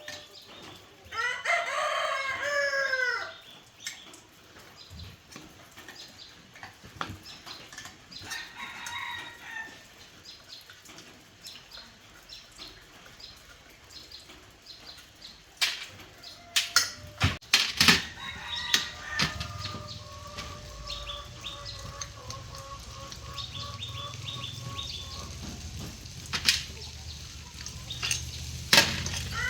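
A rooster crows loudly about a second in and calls again, more faintly, near nine seconds. Later come several sharp knocks, then a steady machine hum with a held tone from about twenty seconds in.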